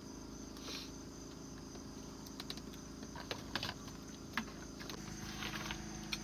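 Insects chirring steadily with a high-pitched, unbroken tone, over a low steady hum, with a few scattered clicks and short rustles.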